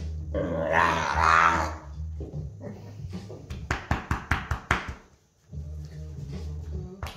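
Boxer dog growling and grumbling, with a quick run of short sharp sounds midway.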